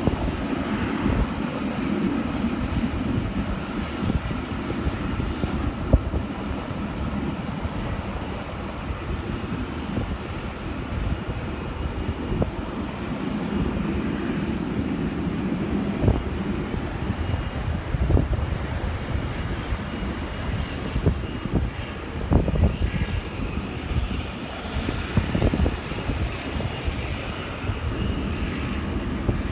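Jet airliner engines running in a steady, dense rush of noise, with no clear start or stop.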